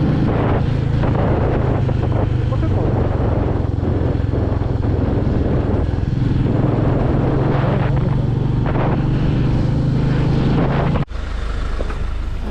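Royal Enfield Meteor 350's single-cylinder engine running steadily while riding, with wind rushing over the microphone. About eleven seconds in, the sound cuts off suddenly to a quieter background.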